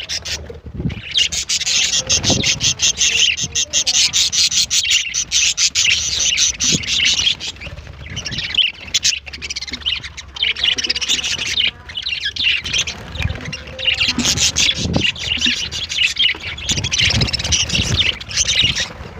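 Budgerigars chattering, with dense, rapid, overlapping chirps that keep up almost without a break. There are a few brief lulls and some low thuds.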